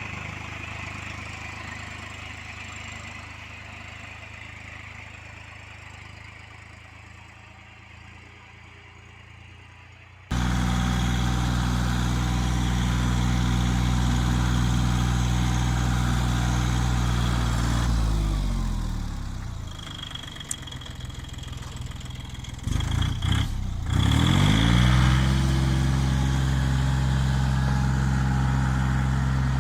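Small tractor engine running. About a third of the way in it cuts abruptly to a louder, steady engine. About two-thirds in that engine slows right down, with a few knocks, then speeds back up and runs steadily.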